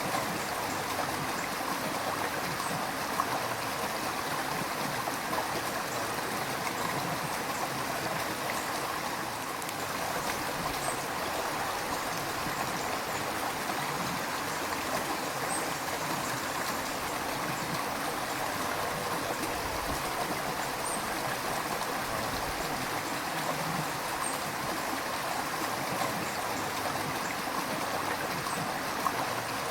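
A river flowing steadily, the water rushing and gurgling over its bed, with small splashes here and there.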